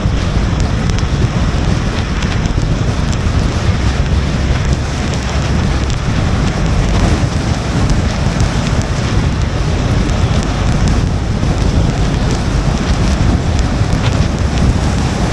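Steady noise of a car driving in the rain: a low rumble and wet tyre hiss from the road, with faint scattered ticks of raindrops.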